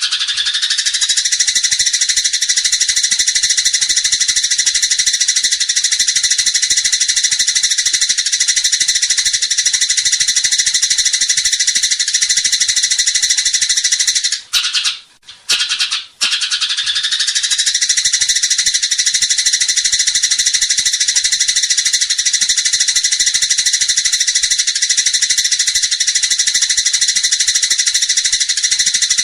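A small songbird's continuous, very rapid high trill (a 'roll'), held for long stretches with a short break about halfway through.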